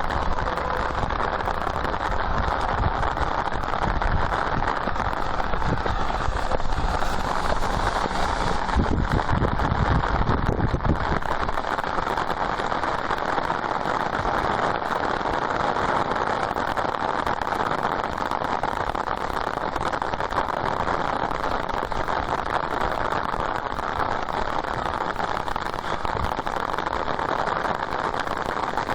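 Heavy downpour: dense, steady hiss of torrential rain. A low rumble runs under it for the first ten seconds or so, then drops away.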